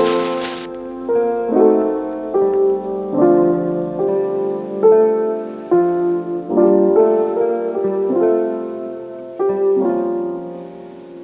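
Slow, soft solo piano music, single notes and chords struck one after another and left to ring. A hiss underneath stops under a second in.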